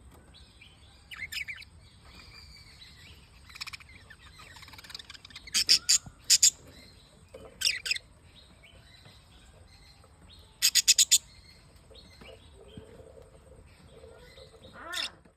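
Pet lovebirds chirping in short bursts of rapid, high-pitched chirps every few seconds, loudest about six and eleven seconds in.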